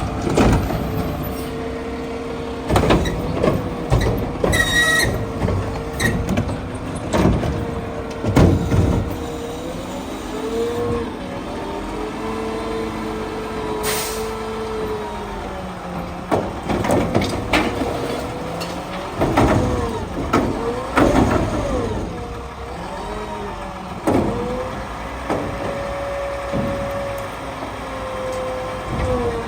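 Mack LR garbage truck with a McNeilus Meridian body and Curotto Can arm at work: a steady whine that rises and falls with the revs, broken by repeated clanks and bangs. There is a short air-brake hiss about halfway through.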